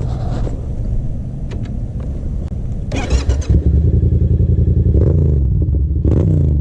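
Yamaha FZ-07's parallel-twin engine starting up about halfway through after the crash and settling into a steady idle, with a couple of short throttle blips near the end: the engine still runs.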